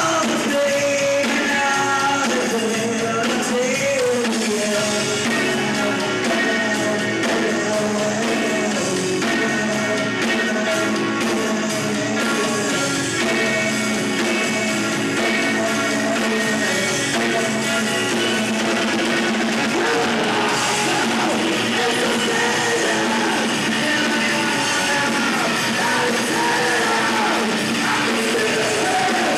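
A rock band playing live, loud and continuous, with singing.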